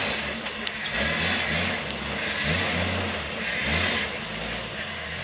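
Engine of a modified Jeep trial 4x4 revving in repeated surges, about one a second, as it works through deep mud ruts under load.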